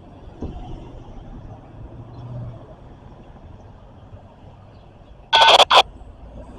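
Locomotive horn sounding a short blast, then a very brief second one, about five seconds in, over a faint low background rumble.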